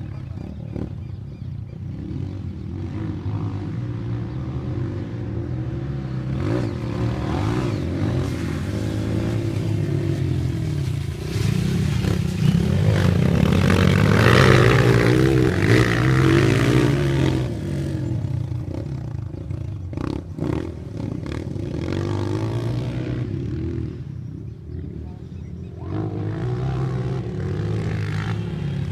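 Motocross dirt bike engines running and revving, their pitch rising and falling with the throttle. The sound swells to its loudest about halfway through, eases off, and picks up again near the end.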